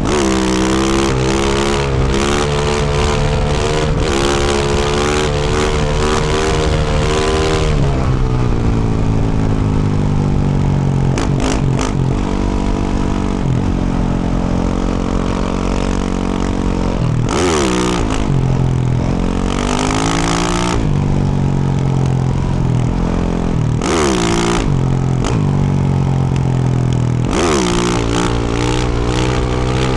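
2024 Yamaha YZ450F's 450 cc single-cylinder four-stroke engine, fitted with a Yoshimura RS-12 exhaust, running hard under way. Its revs climb and drop sharply several times.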